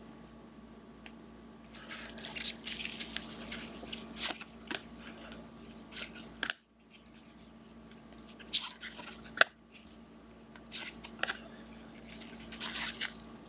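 Trading cards being handled and flipped through: bursts of rustling and light clicking, with one sharp click about nine seconds in, over a low steady hum.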